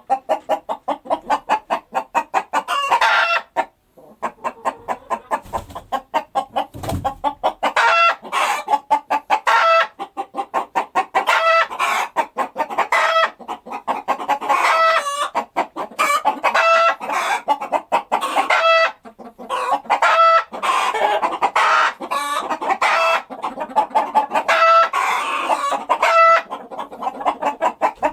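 Chickens clucking in a dense, continuous chorus of short repeated calls, with a rooster crowing among them.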